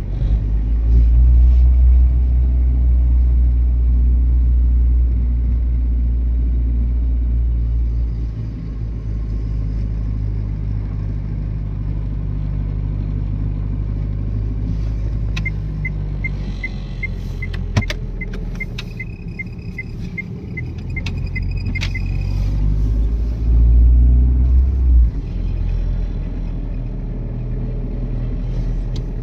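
An old Renault Twingo on the move: steady engine and road rumble, heaviest for the first several seconds and again briefly near the end. For several seconds past the middle there is an even ticking about three times a second, with a few sharp clicks.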